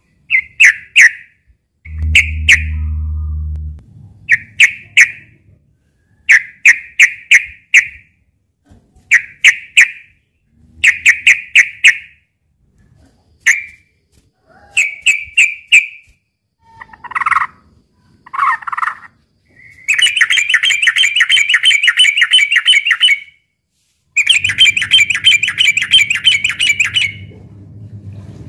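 Yellow-vented bulbul singing: short, quick bubbly phrases of a few notes repeated every second or two, then two long runs of fast chattering near the end. This is the bird's aggressive fighting song.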